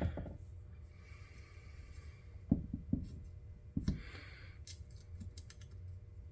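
Small metal hex key being handled and fitted into the hex socket of a case screw: a few light knocks, then several quick faint clicks.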